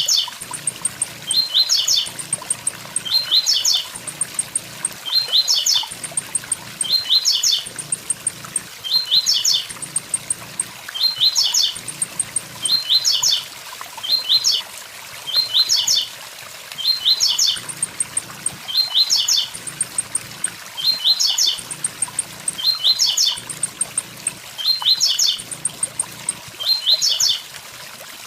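Blue-black grassquit (tiziu) singing its short "tui tui zel zel" phrase over and over, one about every two seconds, over the steady rush of a waterfall.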